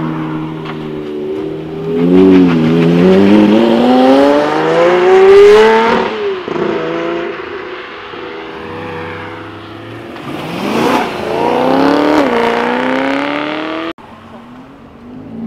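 A performance car's engine accelerating hard away, its pitch climbing steadily through a gear to a shift about six seconds in. A second rising run and gear change follows around ten to twelve seconds in, fading as the car pulls away. Near the end the sound drops suddenly to a much quieter background.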